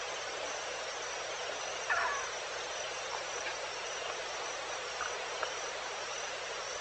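Evening insect chorus: a steady, even hiss with a high steady trill over it. A short animal call about two seconds in, and a couple of faint chirps around five seconds.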